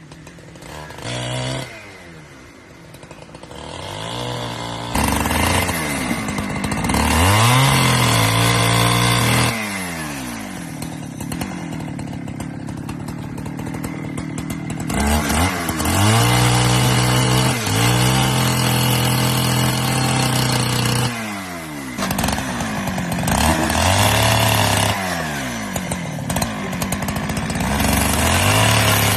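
Chainsaw revving up and down again and again, held at high revs for a few seconds at a time, as when cutting firewood.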